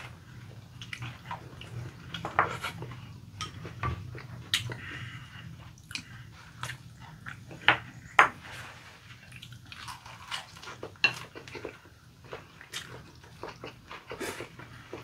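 Two people chewing and biting leaf-wrapped rice and side dishes close to the microphone, with sharp clicks and light clatter of spoon and chopsticks on bowls scattered throughout. The loudest are two clicks close together about eight seconds in, over a low steady hum.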